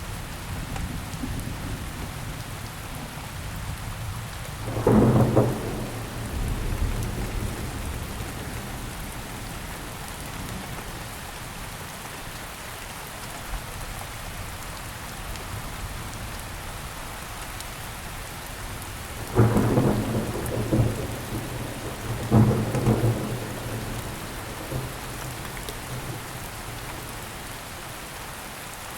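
Steady rain falling on surfaces, with thunder rumbling three times: once about five seconds in, then twice close together in the second half.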